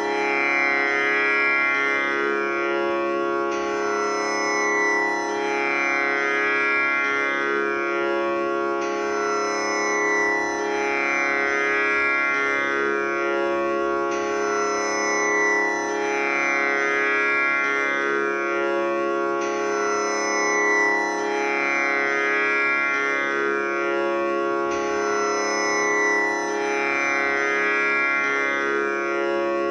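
Tanpura drone tuned to C#: its strings plucked one after another in a slow cycle that repeats about every five and a half seconds, each note sustaining with a rich, buzzing ring that blends into a continuous drone.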